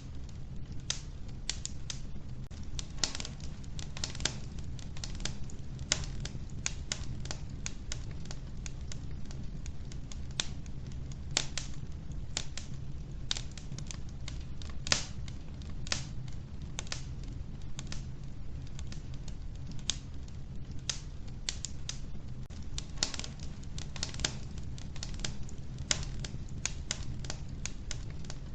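Wood fire crackling in a wood-burning stove: irregular sharp pops and snaps, several a second, over a low steady rumble of the burning logs.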